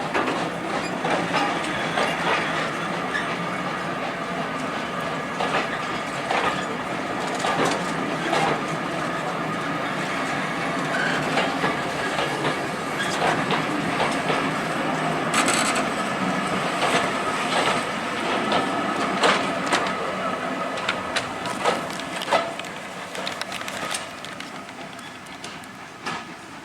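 Train running along the track, a steady rolling noise with repeated wheel clicks over the rail joints, fading noticeably over the last few seconds.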